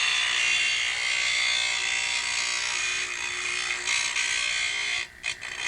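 Power saw cutting bathroom tile: a steady, high-pitched grinding whine that drops out briefly about five seconds in and then picks up again.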